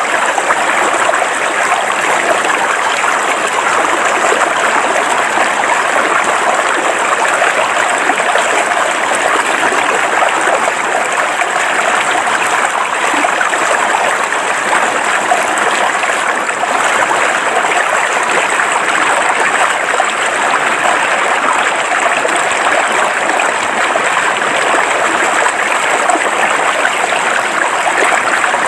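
River water flowing steadily over rocks, a constant even rush of rippling stream water.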